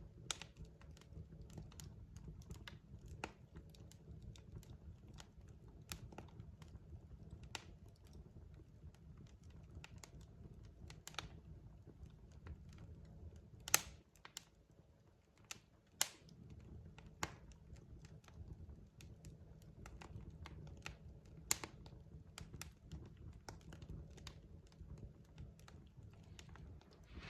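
Logs burning in a fireplace, crackling with irregular sharp pops and snaps over a low steady rumble. A few louder pops come around the middle.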